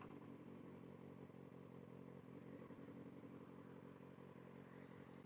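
Kawasaki ZX-6R's inline-four engine idling faintly and steadily.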